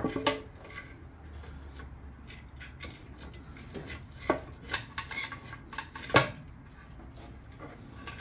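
Hand tools and metal parts clinking and clanking at irregular intervals while valve cover bolts are removed on a Chevy 350 V8, with the loudest clank right at the start.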